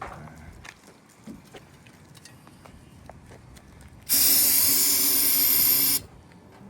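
Aerosol can of solvent cleaner spraying in one steady hiss of about two seconds, starting about four seconds in. A few faint clicks and knocks come before it.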